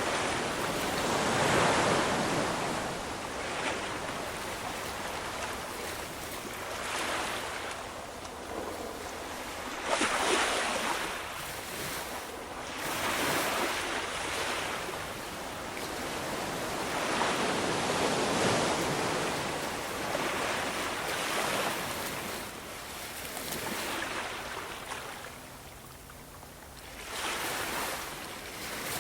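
Ocean surf: waves breaking and washing back in a steady rushing hiss, swelling about five times a few seconds apart, with a quieter lull shortly before the last break near the end.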